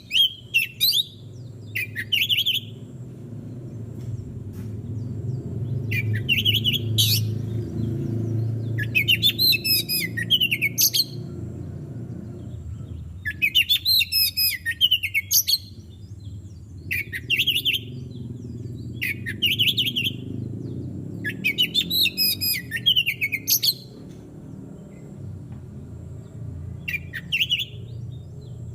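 Oriental magpie-robin (kacer) singing: short whistled notes every second or two, alternating with longer, rapid warbling phrases, over a steady low background rumble.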